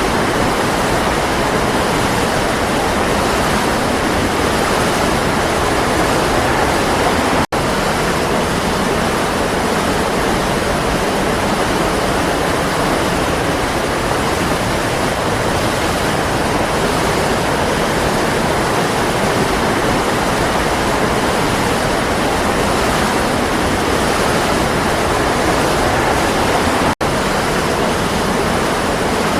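Waterfall: a steady, full rush of falling and splashing water. It cuts out for an instant twice, once early and once near the end.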